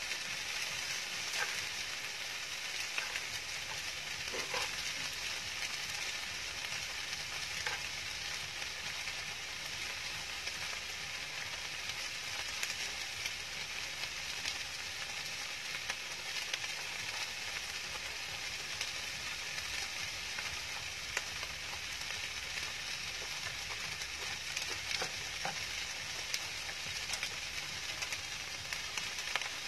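Chicken and kimchi fried rice sizzling steadily in a round grill pan on a portable gas stove, with a few light clicks, like a spoon against the pan.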